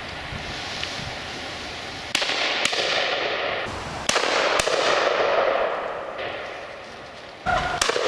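Shotguns firing at driven game: three pairs of shots, each pair about half a second apart, roughly two, four and seven and a half seconds in.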